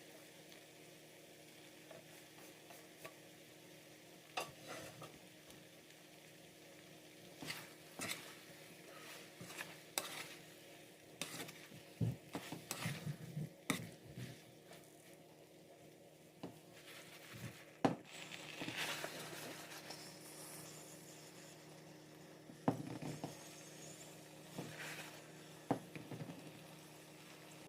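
A cooking utensil stirring and scraping in a pan of chilli chicken gravy, with irregular knocks against the pan and a faint sizzle, over a steady low hum. The knocking is busiest about halfway through, with sharp single knocks later on.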